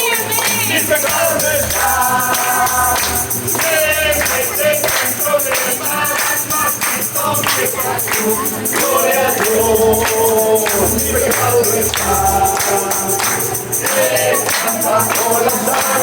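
Worship music: a group singing a hymn to a tambourine keeping a steady beat.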